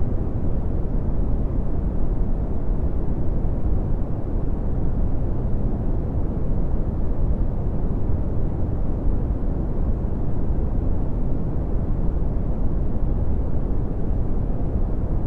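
Red (Brownian) noise: steady, unchanging noise, deep, with most of its power in the lows and falling away toward the highs.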